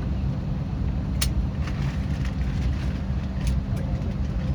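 Steady low rumble of an Airbus A321neo's cabin on the ground after landing, with a few sharp clicks about a second in and again past three seconds.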